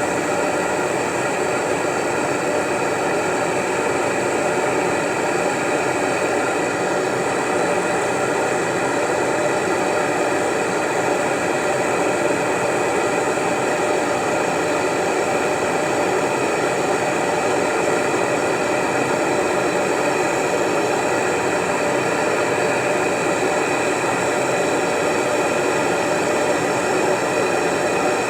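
A machine running steadily: an even whir and hiss with several fixed tones, unchanging in level.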